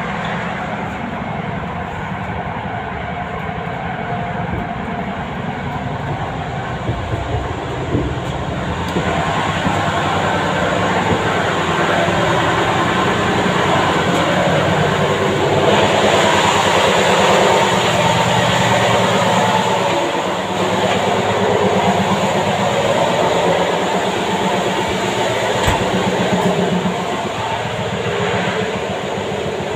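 Running noise of a moving passenger train heard from inside its coaches: a steady rumble of wheels on the rails with a few sharp clicks. It grows louder about a third of the way in and is loudest around the middle.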